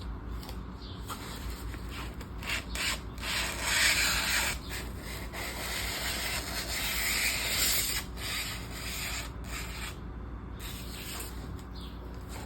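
Rustling and rubbing as planner supplies are handled, with scattered small clicks; the longest rustles come about four seconds in and again from about five and a half to eight seconds in.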